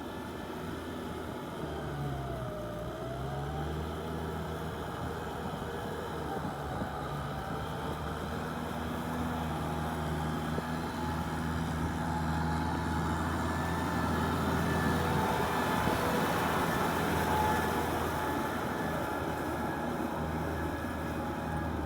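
Kubota tractor's diesel engine running steadily while ploughing mud. Its pitch dips and recovers briefly about two seconds in, and it grows gradually louder toward the end.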